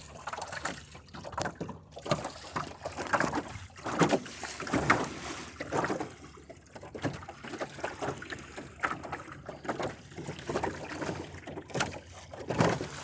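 Water slapping and splashing against the hull of a small sailboat under way, in irregular surges, with some wind noise on the microphone.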